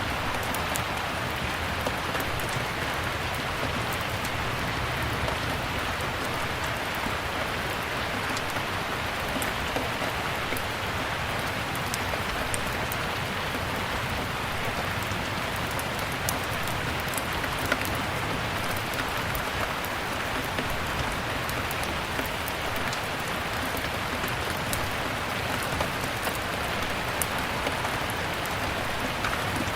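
Steady rain hissing evenly, with scattered small sharp crackles from a log fire over it.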